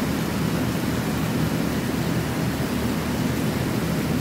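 Steady heavy rain falling on banana leaves and a garden, an even, unbroken hiss.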